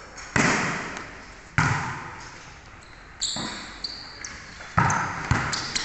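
Basketball game play on an indoor court: a ball striking the floor or backboard with irregular, echoing thuds about six times, with short high sneaker squeaks in between.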